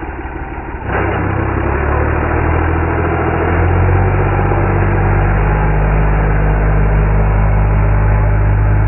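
A vehicle engine running, with a steady low drone that jumps louder about a second in and grows louder again partway through.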